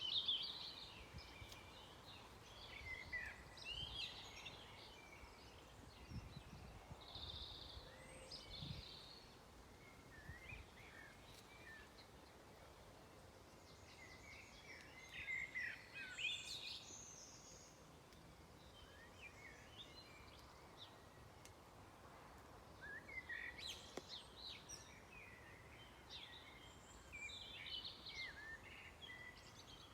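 Songbirds singing and calling: faint, short high chirps and trilled phrases from more than one bird, coming in clusters with quiet gaps between.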